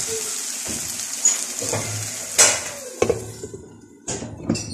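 Fried beef masala sizzling in a non-stick pan, the hiss dying away over about three and a half seconds now that the burner is off, with a few sharp knocks along the way. Near the end a glass lid is set on the pan with two knocks.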